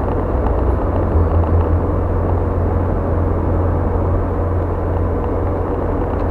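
Car driving on a highway: steady engine and tyre road noise with a deep rumble.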